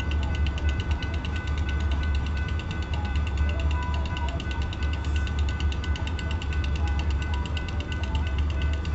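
Railroad grade-crossing warning bell ringing in a rapid, even, unbroken ticking, over a low steady engine rumble.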